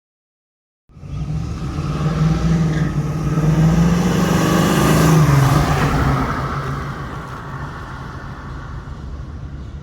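1963 Chevrolet Nova's engine and exhaust as the car drives past: the sound cuts in about a second in, swells to a peak about four seconds in, drops in pitch as it passes, then fades away.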